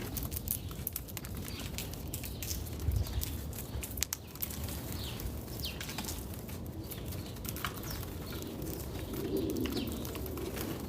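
Backyard birds giving short, falling chirps, mostly around the middle, among many scattered sharp clicks and taps over a steady low rumble.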